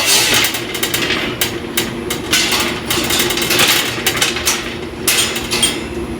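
Metalworking noise: irregular bursts of crackling hiss, each about half a second to a second long, with many sharp clicks on metal, over a steady low hum.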